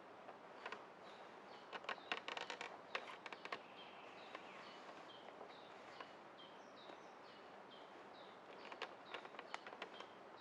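A bird repeats a short falling call note, about two a second, over a faint steady forest hiss. Bursts of dry crackling clicks come about two seconds in and again near the end.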